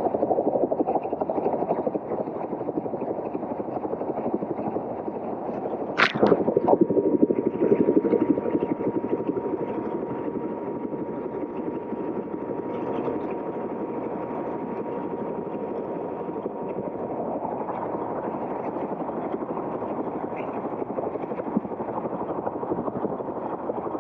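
Steady, muffled helicopter noise, with one sharp knock about six seconds in.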